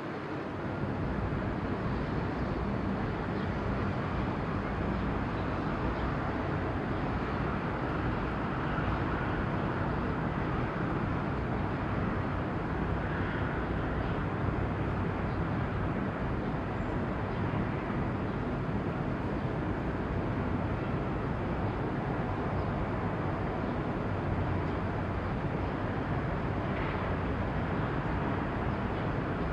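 Steady harbour background noise: a low, even engine hum under a constant rumble, with no distinct events.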